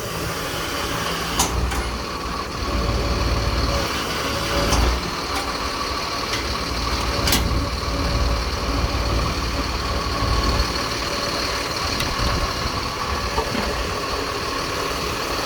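Jet fuel truck's engine running steadily with the PTO engaged to drive the fuel pumps: a continuous low rumble with a faint steady whine. A couple of sharp clicks come through, one about a second in and another about halfway.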